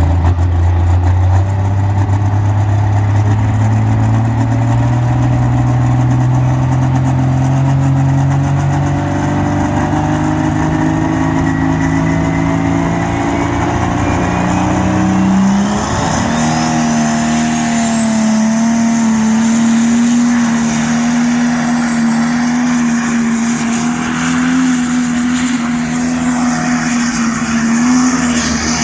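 Pulling tractor's engine working under full load during a run with the sledge. Its note climbs steadily for about fifteen seconds, with a thin high whistle rising alongside, then holds at a high, nearly steady pitch to the end of the run.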